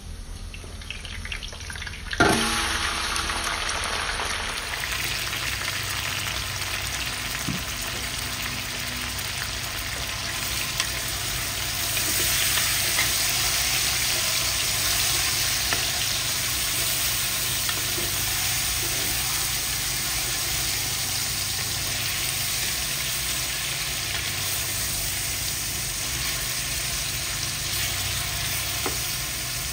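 Chicken pieces hitting hot oil in a metal pot: a loud sizzle breaks out about two seconds in, then steady frying while a wooden spatula stirs them.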